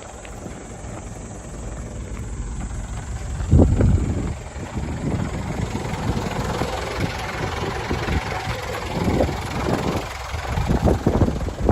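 Mitsubishi Canter's 4D34 four-cylinder turbo diesel engine idling steadily, with wind buffeting the microphone in gusts, the strongest about three and a half seconds in.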